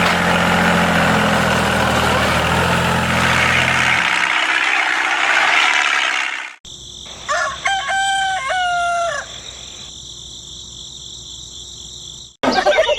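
An engine running under a loud rushing noise that cuts off abruptly about six and a half seconds in. About a second later a rooster crows once, for about two seconds.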